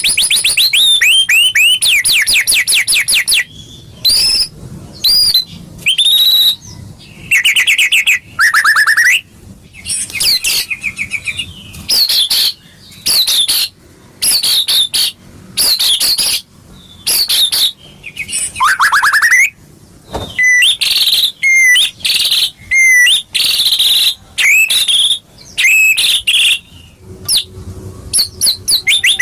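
White-rumped shama (murai batu) singing a loud, varied song of whistles, rapid trills and sharp high chips in quick phrases separated by short pauses.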